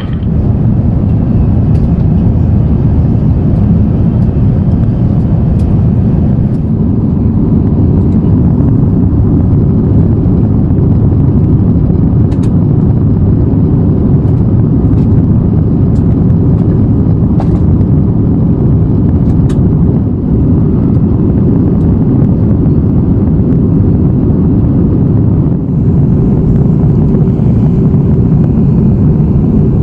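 Steady low cabin roar of an Airbus A350-900 airliner in descent: airflow and engine noise heard from inside the passenger cabin.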